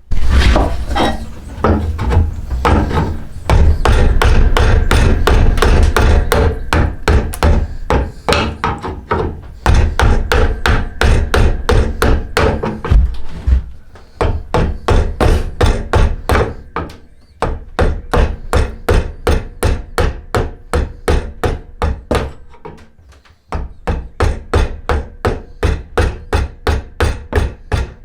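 Hand tool striking yew wood over and over in quick, sharp blows, heavy and dense at first, then settling into a steady rhythm of about three strikes a second after a short lull near the end.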